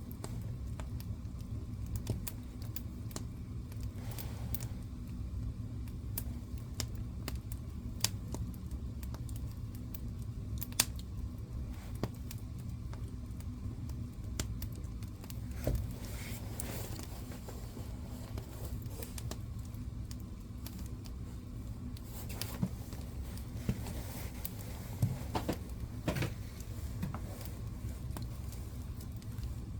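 Fire burning in a fireplace: irregular sharp crackles and pops, a few of them louder, over a steady low rumble.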